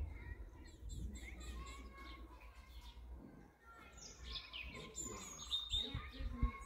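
Birds chirping in the background, short high calls that come thickest about four seconds in, over a low rumble.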